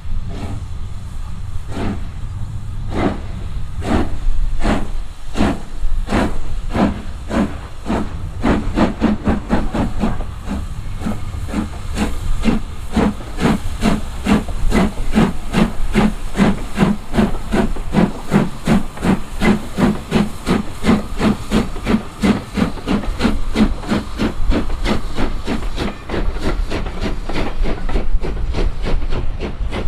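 Steam locomotive pulling away: its exhaust chuffs start slow, about one a second, and quicken steadily to several a second as it gathers speed.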